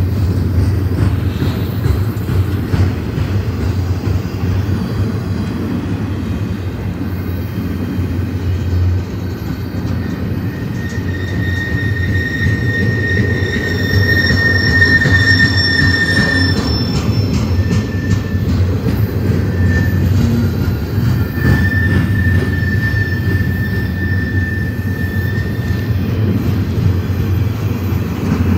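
Freight train cars rolling past at close range: a steady low rumble of steel wheels on rail. A high wheel squeal comes in about eleven seconds in, lasts about five seconds, and returns about twenty-two seconds in.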